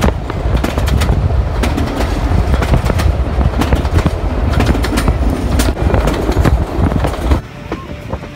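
Passenger train carriage running along the track, heard from the window: a steady low rumble with irregular clicks and clacks of the wheels over the rails. The sound drops sharply in level near the end.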